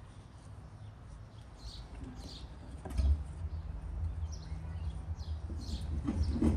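Birds chirping faintly and intermittently over a steady low rumble, with a single knock about three seconds in.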